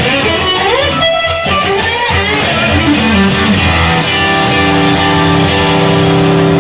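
Instrumental guitar music: a gliding guitar line, then held chords from about four seconds in.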